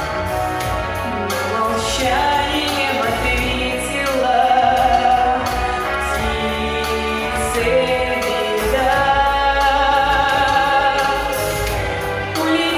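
Song performed on stage: singing voices holding long notes over an instrumental backing with a bass line and a steady beat.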